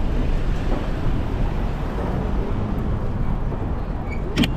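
Steady rushing noise of wind and city street traffic heard from a moving bicycle, with one sharp click near the end.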